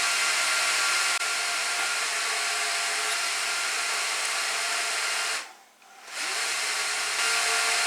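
Cooling fans of the Gigabyte R180-F34 server running: a steady airy whoosh with several steady whining tones. The sound cuts out briefly about two-thirds of the way through, then comes back unchanged.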